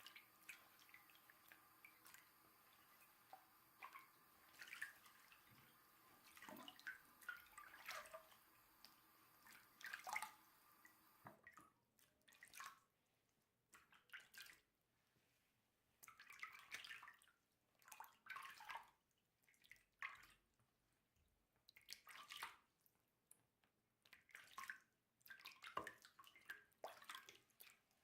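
Soft, irregular water drips and small splashes as a doll's wet hair is washed.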